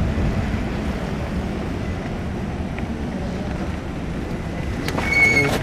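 Wind buffeting the microphone and steady road and traffic noise while riding an e-bike, with a short high-pitched squeal near the end.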